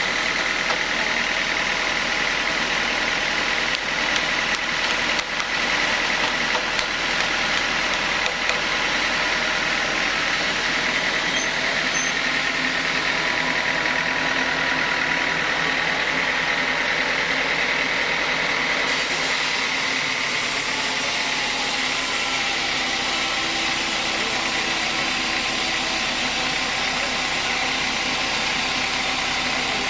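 Sawmill machinery running steadily, with a constant high whine over a mechanical hum; the high hiss gets brighter about two-thirds of the way through.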